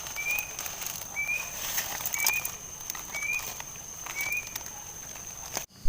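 Animal sounds outdoors: a short rising call repeated about once a second over a steady high-pitched insect trill, with scattered clicks. The sound cuts off just before the end.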